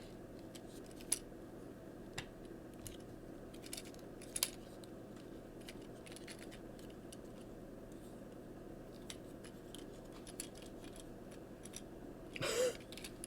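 Scattered small clicks and knocks of hard plastic parts as a Transformers Siege Hound action figure is handled and transformed, over a faint steady hum.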